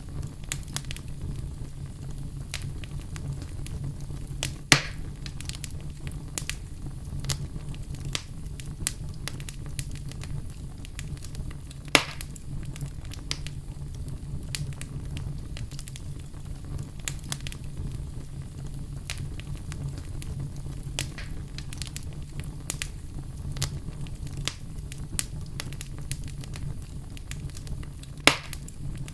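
Wood fire burning in a fireplace: a steady low rumble of flame with frequent small crackles, and three louder pops of the burning wood, about five seconds in, about twelve seconds in, and near the end.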